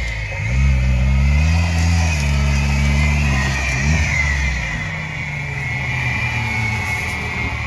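Off-road car engine revving up and down under load, with a short blip about four seconds in, then settling to lower revs; a high wavering whine runs alongside.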